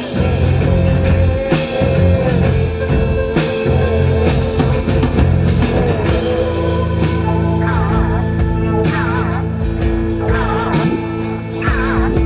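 Live rock band playing, with guitar and drum kit over a steady low end. From about eight seconds in, a wavering high lead line comes in.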